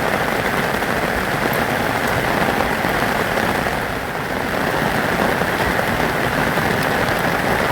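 Rain falling steadily: a dense, even hiss of drops.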